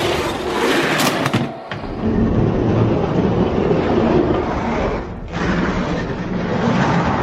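Die-cast Hot Wheels monster trucks running down a plastic track: a loud, continuous rolling rumble and rattle, broken off sharply about a second and a half in and again about five seconds in.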